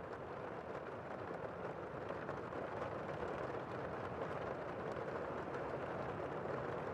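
Heavy rain heard from indoors: a steady, dense hiss of rain falling on the building, muffled by the walls and growing slightly louder about two seconds in.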